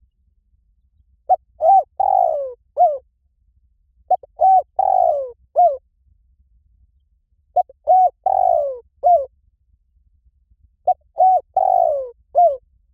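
Spotted dove cooing, a recorded call of the kind played to lure wild doves in to a decoy. Four phrases come about every three seconds, each a few short coos, a longer falling coo and a short closing coo.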